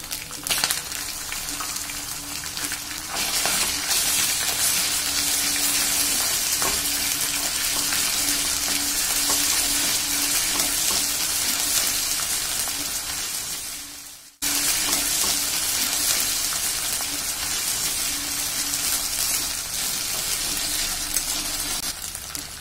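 Sliced onions, ginger paste and freshly added onion paste sizzling in hot oil in a wok while a spatula stirs them. The sizzle grows louder about three seconds in and drops out for a moment just past the middle.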